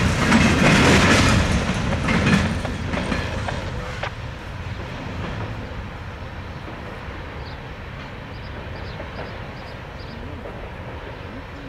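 Tank cars of a freight train rolling over a rail crossing diamond, their wheels clattering with a few sharp knocks. The noise dies down after about four seconds to a low, steady rumble.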